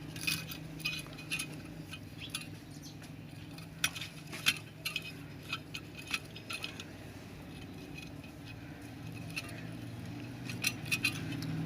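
Small metal parts of an electric iron clinking and clicking as they are handled during a thermostat replacement, in scattered light clicks that bunch up now and then, over a low steady hum.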